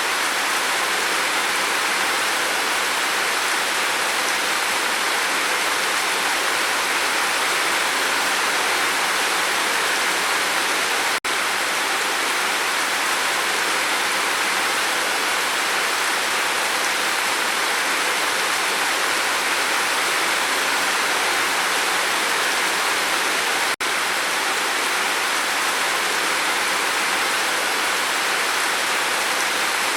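Steady, dense rain falling on a roof, an even hiss of drops with no thunder. It breaks off for a split second about 11 seconds in and again near 24 seconds.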